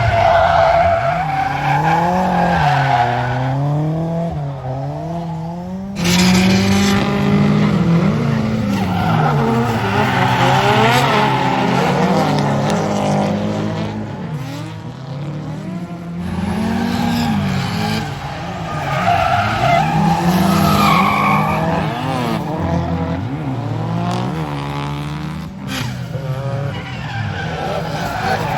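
Drift cars sliding under power: engines revving up and down in quick swings while the tyres screech. The sound changes suddenly a few times as it jumps from one car to another.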